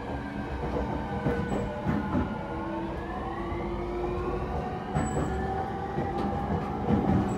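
E231 series EMU with Hitachi IGBT-VVVF traction equipment running under power: the motor and inverter whine rises slowly in pitch as the train gathers speed, over the steady rumble of wheels on rail with a few sharp clicks at rail joints.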